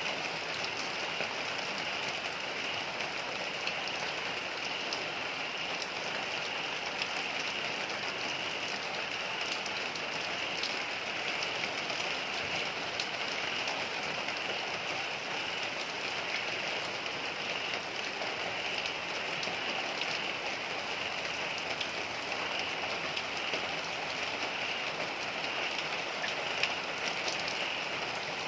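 Heavy rain falling steadily: a dense, even hiss with small drop taps scattered through it.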